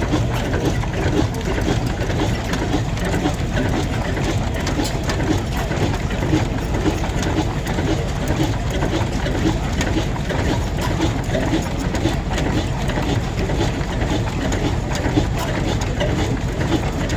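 A heavy vintage engine running steadily at idle with an even, repeating beat.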